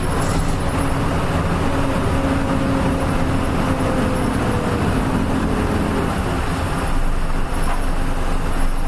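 Nissan Diesel KL-UA452MAN city bus running steadily, heard from inside the cabin: engine drone and road noise, with a faint whine that slowly falls in pitch about halfway through.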